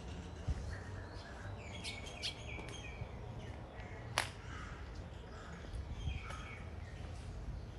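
Birds calling: short calls repeated in loose runs, over a steady low background rumble. A single sharp click about four seconds in.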